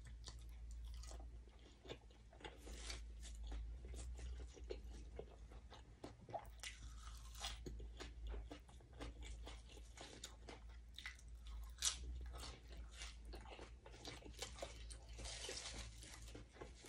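Close-miked eating: chewing a mouthful of sticky rice dipped in Thai eggplant dip, with irregular crisp crunches and wet mouth clicks throughout.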